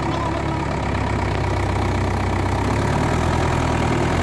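Mahindra Yuvo Tech+ 575 DI tractor's diesel engine running steadily at a low, even hum.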